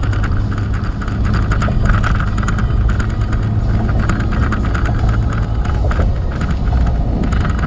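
Truck driving on a wet highway in rain, heard from inside the cab: steady engine and road rumble, with rain hitting the windshield and roof as many small ticks over a constant hiss.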